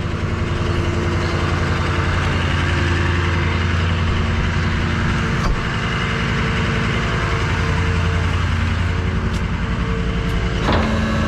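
Tow truck's engine running steadily, a low even drone with no change in pitch.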